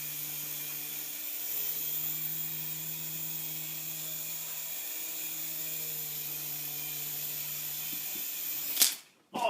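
Small electric toy helicopter's motor and rotor running with a steady low hum and high whir. The pitch wavers slightly, and the sound cuts off suddenly with a click near the end.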